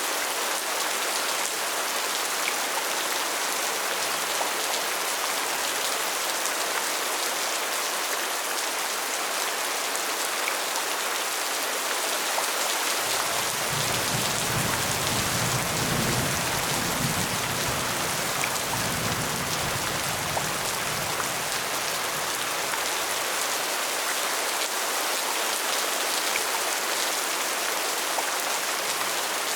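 Steady rain falling, an even hiss. About halfway through, a low rumble comes in for several seconds and fades away.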